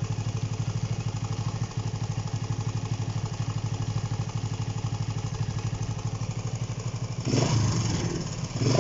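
Honda CB125 RS motorcycle engine idling slowly and weakly with a steady, even putter. Near the end it gets louder and rougher as the throttle is opened. The engine is running poorly and bogs down when given throttle.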